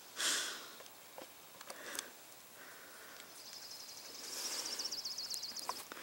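A small bird's rapid, evenly pulsed high trill starts about three seconds in and lasts about two and a half seconds. Right at the start there is a short, louder breathy rush of noise.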